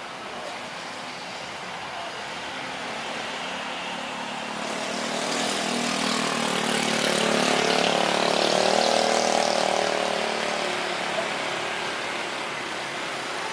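Boeing 737 jet airliner passing by. Its engine noise builds to a peak about eight seconds in, a rushing sound with a droning hum and a higher whine in it, and then fades away.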